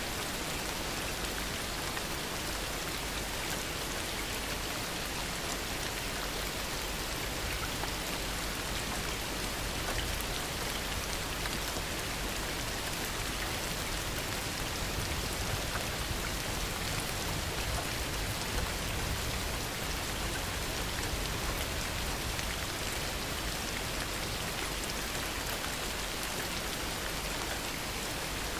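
Steady heavy rain, a dense hiss of drops falling on surfaces.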